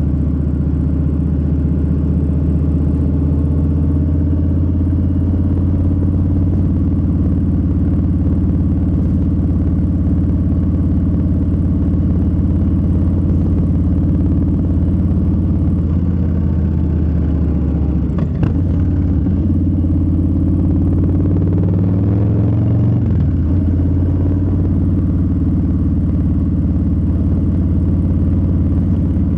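Harley-Davidson Low Rider S's Milwaukee-Eight 117 V-twin running under way at a steady cruise. The engine note breaks and changes pitch about two-thirds of the way in, then climbs and drops again a few seconds later, as with gear changes.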